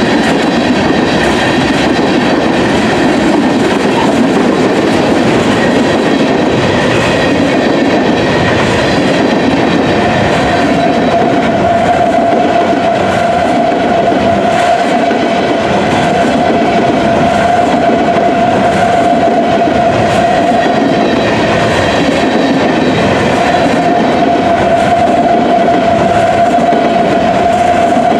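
Freight train rolling steadily past close by: the continuous rumble and clatter of boxcar and covered-hopper wheels on the rails. A steady whine sets in about ten seconds in and holds on.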